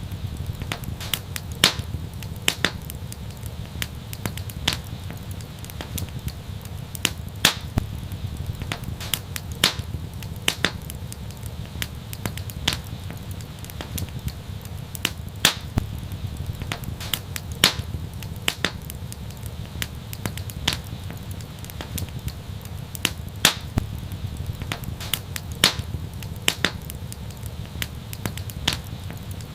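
Wood fire crackling and popping: irregular sharp snaps, a few each second and some much louder than others, over a steady low rumble.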